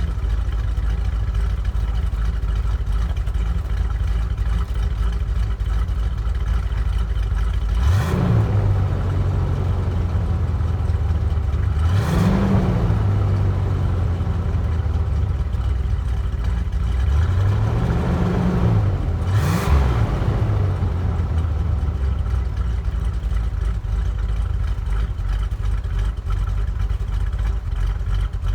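1990 Suburban's engine idling steadily and revved four times, each rev rising briefly and falling back to idle; the last two come close together near the middle.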